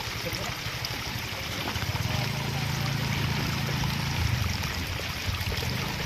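Steady rush of flowing river water, with a low hum that swells from about two seconds in and fades after about four and a half.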